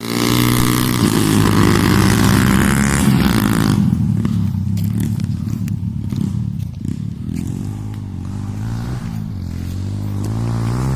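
Motocross motorcycle engine at high revs for the first few seconds, then dropping back to lower revs that climb again near the end.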